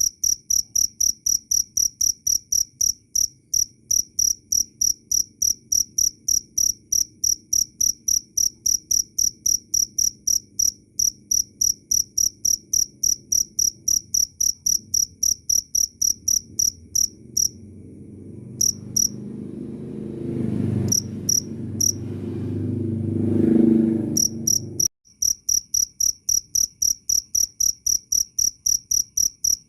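A cricket chirping steadily in evenly spaced, high, clear chirps, about three or four a second. About two thirds through, the chirping breaks off to a few scattered chirps while a low rumble swells up. The rumble then cuts off sharply and the steady chirping picks up again.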